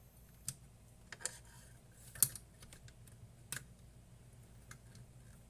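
A handful of separate sharp clicks and taps, spaced unevenly, from small hard parts being handled on a workbench; the one a little past two seconds in is the loudest.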